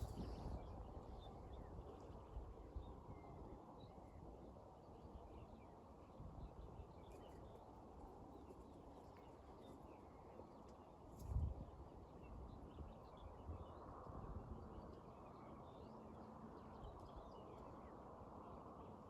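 Faint outdoor nature ambience: scattered small bird chirps over a low steady background noise, with a single soft thump about eleven seconds in.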